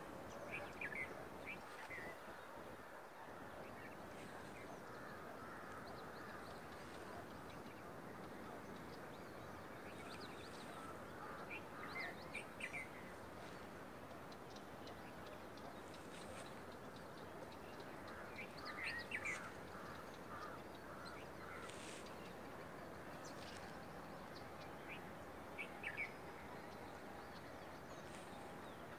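Birds calling now and then in short chirps, in small clusters about a second in, then around 12, 19 and 26 seconds in, over a faint steady background noise of open country.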